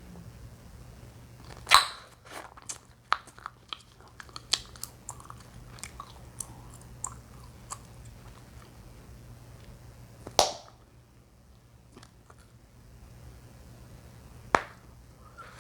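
Chewing gum being chewed and popped close to the microphone: three loud, sharp gum pops, about two seconds in, ten seconds in and near the end, with a quick run of smaller snaps and wet clicks in between.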